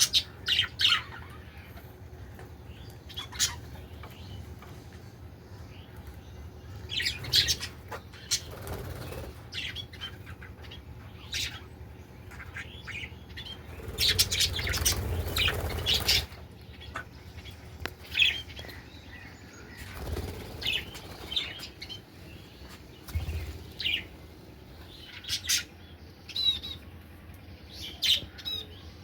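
Pet budgerigars chirping in short, scattered calls, with a burst of wing flapping about halfway through that lasts about two seconds.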